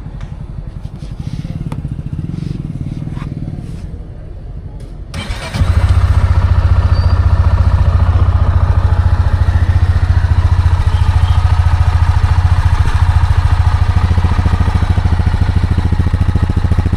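Honda CB300 motorcycle with its stock exhaust being started: about five seconds in, the single-cylinder engine catches and settles into a steady idle. The idle is quiet, read at under 70 dB on a decibel meter.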